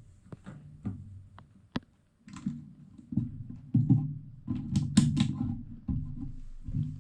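Plastic LEGO bricks being handled and pressed together on a tabletop: a string of irregular clicks and knocks with dull thumps, sparse at first and coming thick and fast from about two seconds in.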